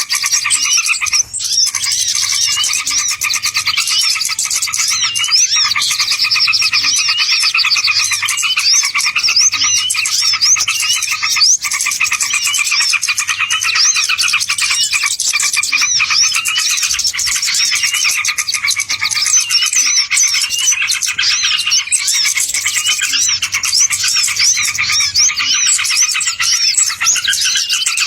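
A dense chorus of many small birds chirping and twittering at once, the kind of bird-lure (pikat) recording played to draw wild birds in. Quick, overlapping high chirps run without a break, with almost no low sound beneath them.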